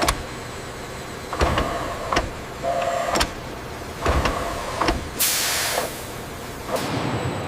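Workshop machinery noise: a series of sharp mechanical clunks with short bursts of motorised whirring between them, and a loud hiss about five seconds in.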